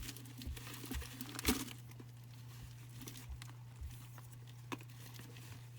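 Scattered light clicks and rustling from parts and wiring being handled, the loudest about a second and a half in, over a steady low hum.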